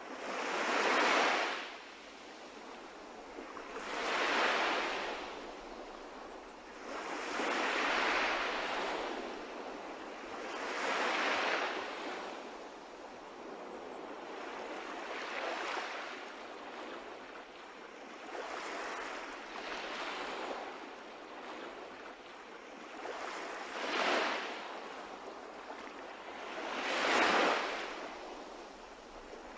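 Sea waves washing, swelling into a surge every three to four seconds with a steady hiss of water in between.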